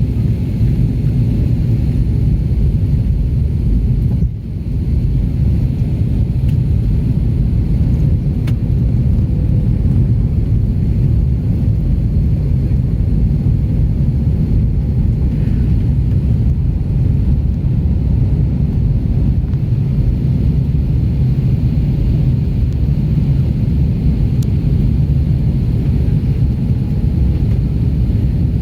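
Steady low rumble of an Airbus A330-300 airliner's engines and airflow, heard from inside the passenger cabin. The rumble dips briefly about four seconds in.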